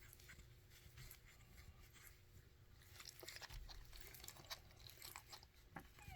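Faint wet clicking and smacking of newborn puppies suckling, with a few tiny squeaks in the second half.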